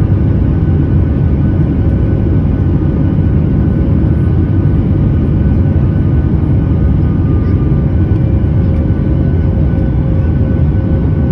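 Airliner jet engines running steadily: a loud, even rumble with a few faint steady whining tones over it.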